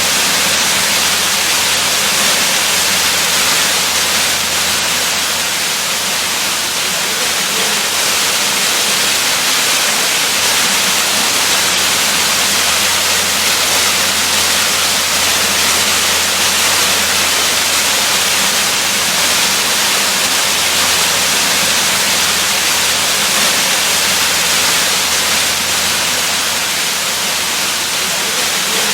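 Waterfall rushing steadily, a constant hiss of falling water with no change.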